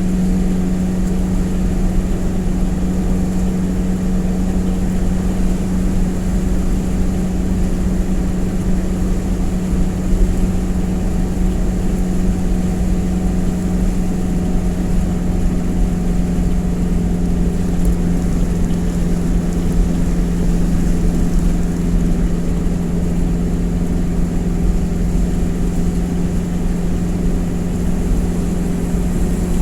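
Truck engine idling: a steady, even drone with a constant hum over a low rumble.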